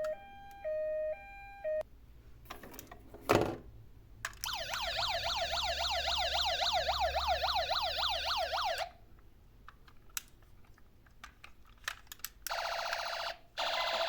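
Emergency-vehicle siren sounds. First comes a hi-lo two-tone siren, then a single knock. After that a fast up-and-down warbling siren runs for about four seconds, and a shorter burst of warble comes near the end.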